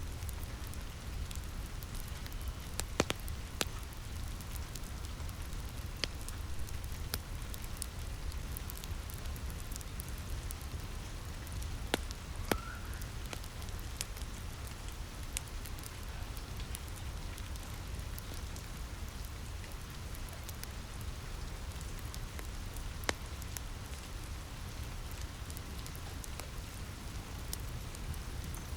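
Steady rain on a cabin roof with a wood fire crackling, a few sharp pops standing out now and then.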